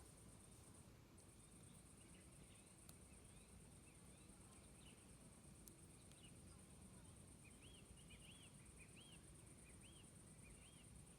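Near silence: faint outdoor ambience with a steady high insect-like hiss and a few faint clicks, then, from about two-thirds of the way in, a bird giving a quick series of short arched chirps.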